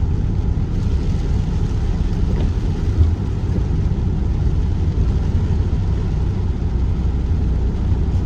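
Steady low rumble of a car's engine and tyres heard from inside the cabin while driving, with one light thump about three seconds in.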